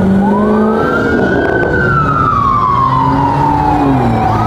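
Police siren wailing: a quick rise, then a slow fall over a few seconds, then rising again near the end. Vehicle engines run steadily underneath.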